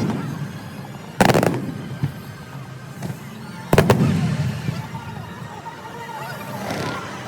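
Aerial fireworks bursting: two loud booms about a second and a half in and again near four seconds, each followed by a fading rumble, with fainter crackling and crowd murmur between.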